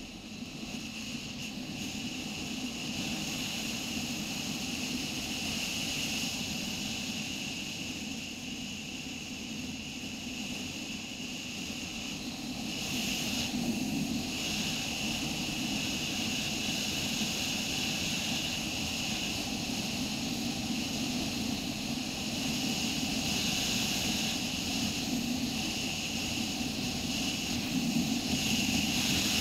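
Motorcycle engine running steadily while riding, with a continuous mix of engine and road noise that grows a little louder in the first seconds.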